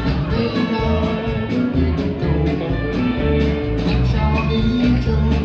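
A live band playing a country-rock song with guitar, bass and drums at a steady beat.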